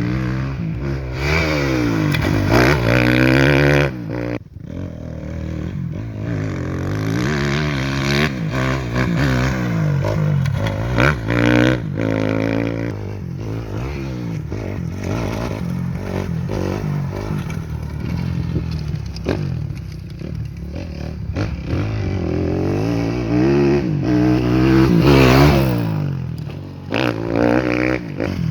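Motocross motorcycle engines revving and accelerating, the pitch rising and falling again and again as the throttle opens and closes, with a brief drop in level about four seconds in.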